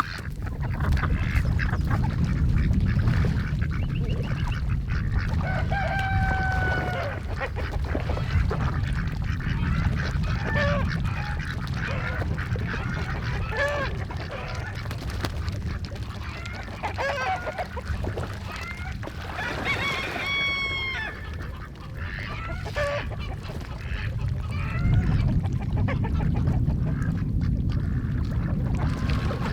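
Domestic waterfowl calling on and off with honks and quacks, with two longer, clearer calls about six seconds in and about twenty seconds in. A steady low rumble runs underneath.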